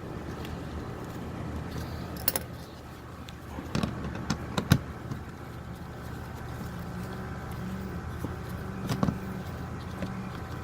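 A few sharp metallic clicks and clinks of hand tools working the bolts of a car's plastic engine undercover, over a steady low hum.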